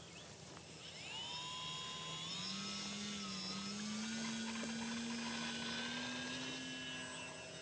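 Engine of a CAP-232 radio-controlled model aerobatic plane running, its pitch climbing from about a second in and rising slowly as it throttles up, growing louder toward the middle and easing off a little near the end.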